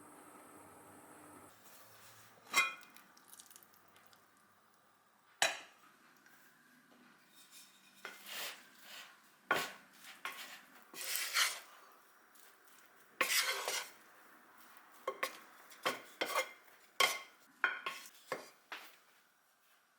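Kitchen utensils knocking, clinking and scraping against a pot and dishes. The sounds come in a scattered run of short knocks and scrapes, a few lasting about a second.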